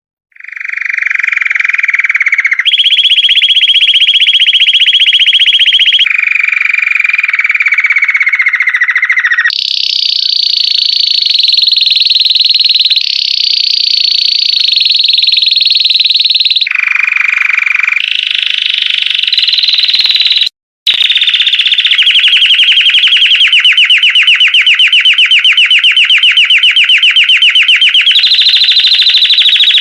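Belgian canary singing a long, continuous song of rapid trills and rolls, each held for a few seconds before switching to another pitch, with a brief break about two-thirds of the way through.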